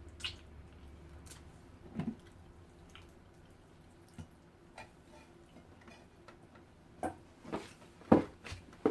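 Close-up eating sounds: scattered short wet clicks and smacks from chewing soft braised pork (lechon paksiw). A few louder ones come near the end.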